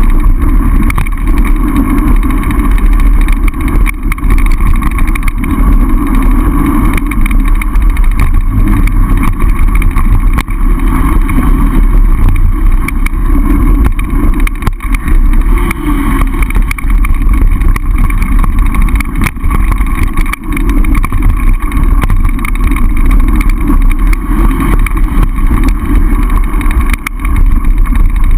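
Loud wind buffeting a ride-along camera's microphone while a mountain bike descends a trail, with steady low rumble and small knocks throughout.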